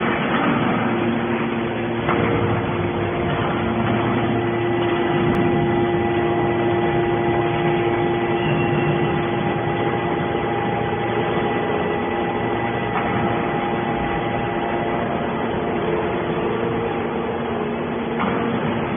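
Y81T-1600 hydraulic scrap metal baler running: a steady machine drone from its motor and hydraulic pump, with several steady tones held over it.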